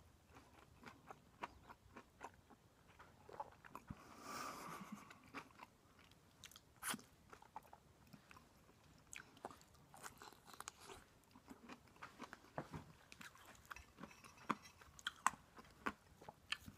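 Faint close-up chewing and biting of food, with many small crunches and mouth clicks scattered irregularly.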